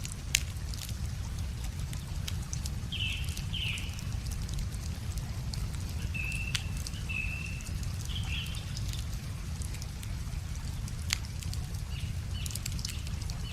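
Wood fire crackling with a few sharp pops, while small birds give short chirping calls again and again, over the steady low rush of a river.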